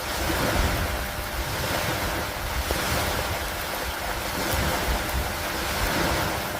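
Steady rain with a low rumbling wash underneath, the whole sound swelling and easing slowly every couple of seconds.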